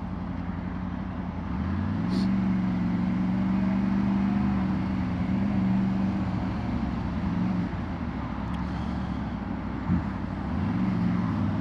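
Motorbike engine running steadily on the move, with wind and road noise, picked up by a helmet-mounted wireless mic with noise cancellation off. The engine note gets louder about two seconds in and dips briefly near the end before picking up again.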